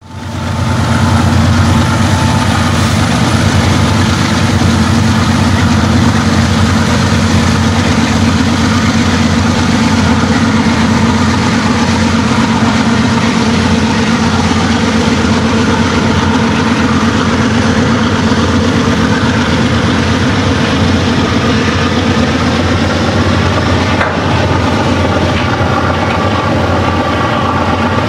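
Diesel locomotives of a departing freight train running steadily under load, with the train's cars rolling past on the rails. The sound fades in at the start and then holds steady.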